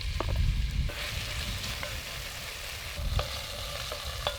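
Pork sizzling as it fries in a hot Dutch oven, the hiss building about a second in, with a few sharp clicks as it is stirred.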